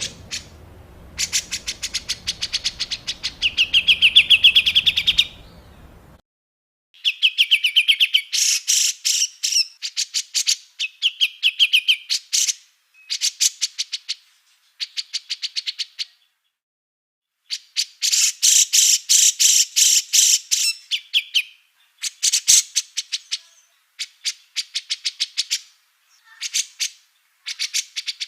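Small songbirds giving harsh, rapid-fire chattering calls: fast runs of short repeated notes with a few buzzy trills, in bursts of one to three seconds broken by sudden silences, as in an edited songbird-training recording.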